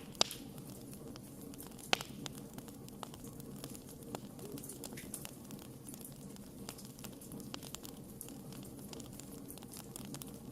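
Campfire crackling: a steady low rush of burning with frequent sharp pops and snaps, two louder pops in the first two seconds.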